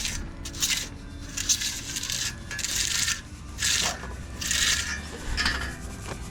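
Rasping scrapes of a hand tool dragged through wet concrete, in repeated short strokes roughly once a second, over a steady low rumble.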